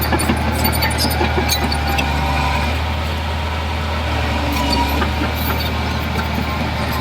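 Heavy diesel earthmoving machinery running steadily with a deep engine hum, with scattered metallic clinks and rattles over it.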